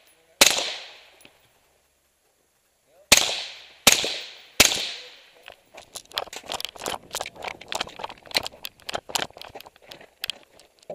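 Four loud AR-15 rifle shots, each with a long echoing tail: one, then a pause of nearly three seconds, then three in quick succession. These are followed by a quick run of many fainter, sharper cracks.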